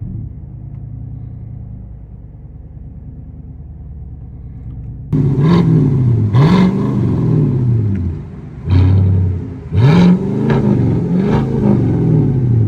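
The 5.3-litre V8 of a 2025 Chevrolet Silverado 1500, through a Tunnel Ram true dual exhaust, idling with a low rumble. About five seconds in it is revved in a series of quick blips, each rising and falling in pitch, one held briefly.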